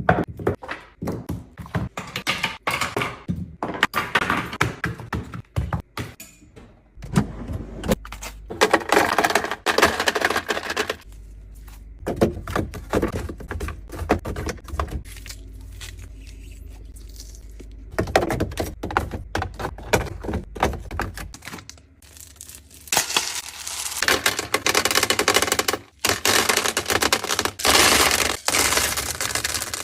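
Rapid clicking, knocking and clattering of plastic containers, lids and packaging being handled and set down, with stretches of rustling and a low hum in the middle.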